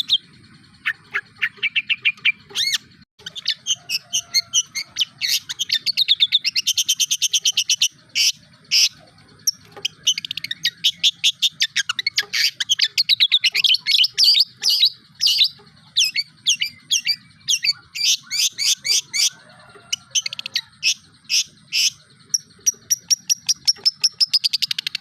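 Long-tailed shrike (cendet) singing a fast, continuous song of rapid strings of short, high notes and trills, with a brief pause about three seconds in. The song is built from imitations of other birds' calls.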